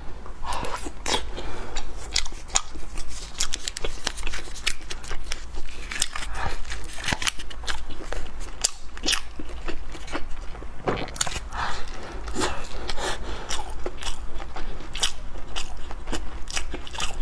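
Close-miked biting and chewing of a purple sticky-rice cake, a dense run of short clicks, with the crinkle of its foil cup being peeled back.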